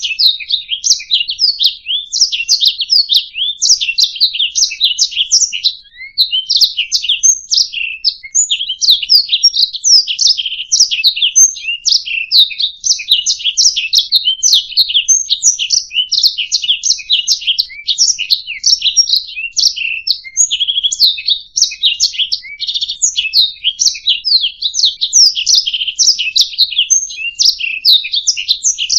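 Domestic canary singing a long, continuous, high-pitched song of rapid trills and chirps, with a brief break about six seconds in.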